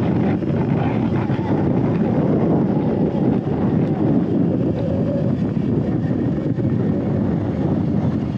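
Steady wind rumble buffeting the microphone while riding a Surron electric dirt bike.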